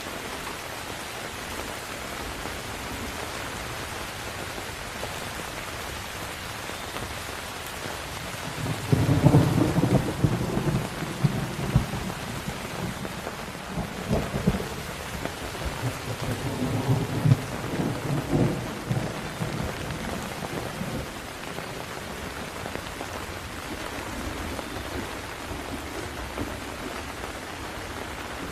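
Steady heavy rain hissing, with a roll of thunder that breaks in about nine seconds in and rumbles on in several surges for about ten seconds before fading back to the rain.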